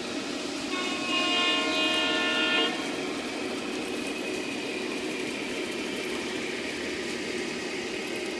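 Toy train's onboard sound system sounding its horn once for about two seconds, starting about a second in, over the steady running noise of a model train on the track.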